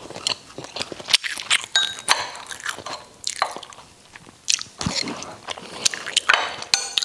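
Close-up mouth sounds of chewing and smacking on braised catfish and rice, with chopsticks clicking now and then against the ceramic plate and bowl.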